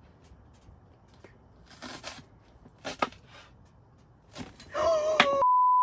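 Faint handling and cutting noises, then near the end a short loud cry that turns into a steady, single-pitch censor bleep, which cuts off abruptly into silence.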